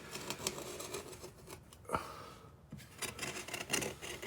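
Hand tool scraping and picking old caulking out of a teak deck seam, in short irregular scratches with a sharp click about two seconds in.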